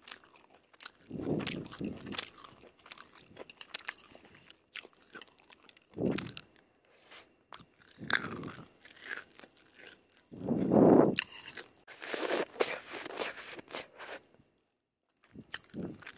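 Chewing of saucy stir-fried yellow noodles, in separate bursts of wet mouth sounds a few seconds apart, loudest a little past the middle. Sharp clicking smacks follow the loudest burst, then a brief pause near the end.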